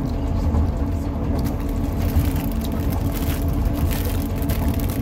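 Passenger train running, heard inside the carriage: a steady low rumble with a faint even hum.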